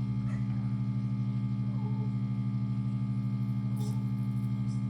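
Vacuum pump of a resin debubbler running with a steady electric hum, pulsing slightly.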